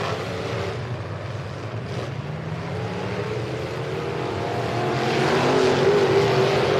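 Demolition derby pickup truck engines running and revving, the pitch rising and falling, getting louder after about five seconds.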